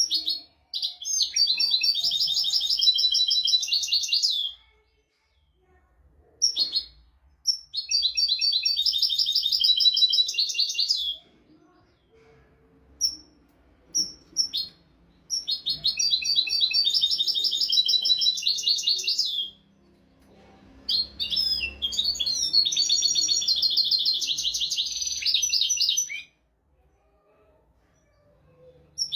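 European goldfinch singing: four long, rapid twittering song phrases of about four to five seconds each, separated by short pauses with a few brief call notes.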